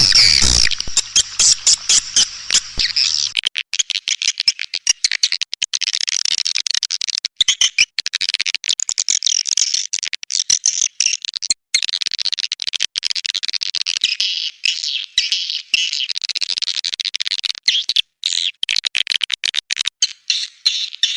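Recorded swiftlets giving a dense, continuous chatter of rapid high chirps and clicks. It is a swiftlet lure call of the kind played to draw swiftlets into nesting houses. A faint low hum underlies the first three seconds or so, then stops.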